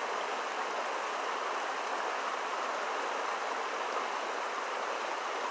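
Creek water rushing steadily over the falls.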